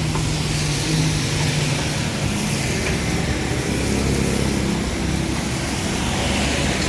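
A motor vehicle engine running steadily, over a constant hiss of traffic noise.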